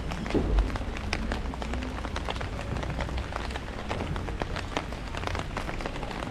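Rain falling on an umbrella: dense, irregular patter of drops tapping on the fabric, with a low thump about half a second in.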